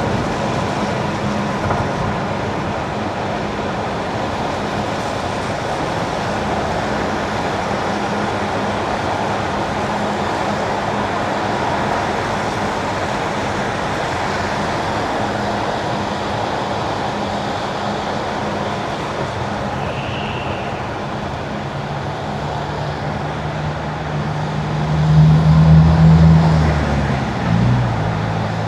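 Car tyres hissing on wet winter asphalt with steady road noise. Near the end a low engine drone swells for a few seconds and then fades.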